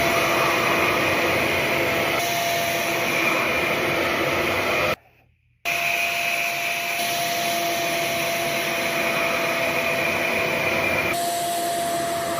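RevAir reverse-air hair dryer running, a steady rush of air with a constant high whine. It cuts out for about half a second around five seconds in, then comes back on.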